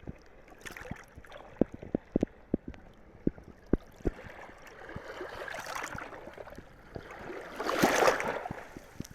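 Water washing at the shoreline, swelling twice, the second time louder near the end. A run of sharp clicks and knocks comes in the first few seconds.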